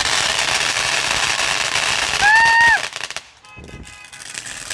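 Street fireworks going off in a dense, continuous crackle, with a brief whistle-like tone about two seconds in. The crackling cuts off suddenly about three seconds in, leaving a much quieter stretch before it picks up again near the end.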